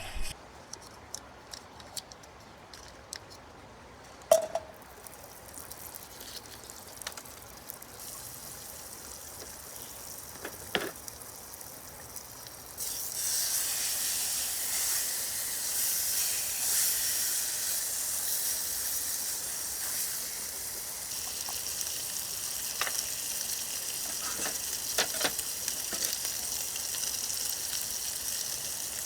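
Food frying in a pan. A few light clinks and knocks of cookware come first, then a loud sizzle starts suddenly a little before halfway and keeps on steadily.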